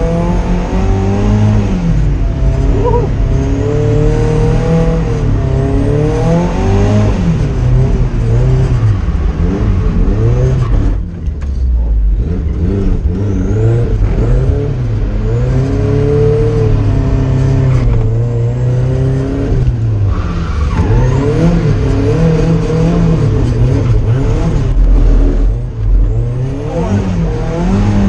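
Turbocharged Mazda Miata's four-cylinder engine being driven hard on a track, revving up and down over and over as the throttle is worked, with a brief lift about eleven seconds in.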